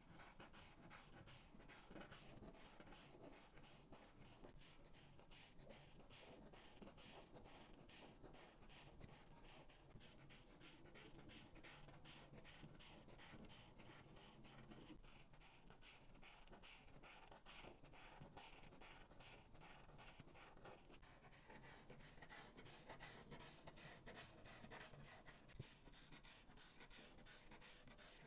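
Alcohol marker tip scratching across paper in quick, even back-and-forth coloring strokes, faint.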